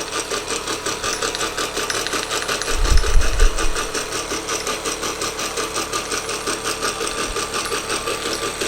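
Wilesco D419 model steam showman's engine running, with a fast, steady gear rattle from the brass middle drive gear, which is slightly out of true and has a tight spot against the small gear on the flywheel. A brief low rumble comes about three seconds in.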